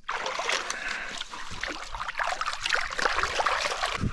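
Water trickling and splashing, a continuous spatter of many small splashes.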